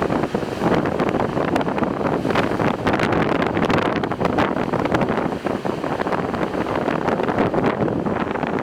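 Wind buffeting a smartphone microphone: a loud, steady rush with rapid crackling.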